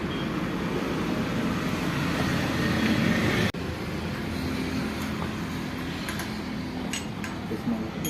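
Massey Ferguson tractor's diesel engine running steadily. It grows a little louder, drops out briefly about three and a half seconds in, then resumes. A few light metallic clicks come near the end.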